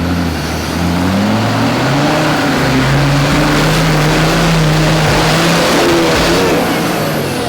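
Off-road 4x4's engine revving hard on a muddy hill climb: the pitch climbs over the first couple of seconds, holds high, then drops away near the end as the throttle comes off.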